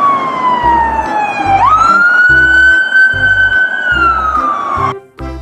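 A siren wail whose pitch falls steadily, jumps back up about one and a half seconds in, holds, then falls again near the end, over a steady beat of background music.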